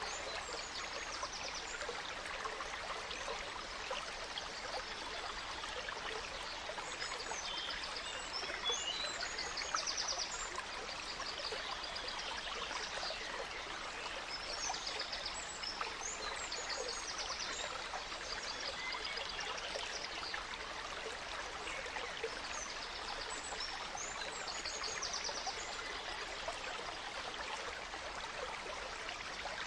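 Gentle stream running steadily, with songbirds singing short, high phrases of rapid notes every few seconds.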